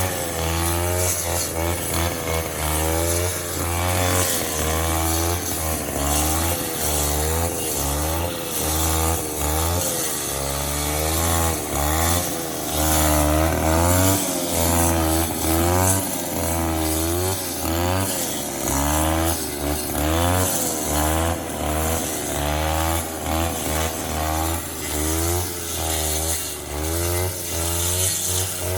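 Robin brush cutter's small petrol engine running hard, its pitch rising and falling over and over. It runs normally and with full power for a 25-year-old machine.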